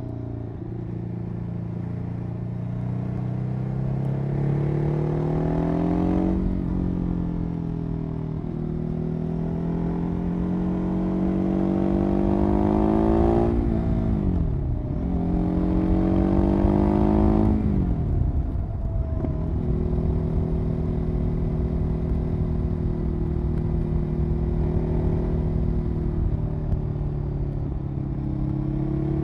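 Ducati 821 Testastretta L-twin engine running through its exhaust. The pitch climbs steadily over several seconds at a time and drops sharply in between, like pulls through the gears, then holds steady for the last ten seconds or so.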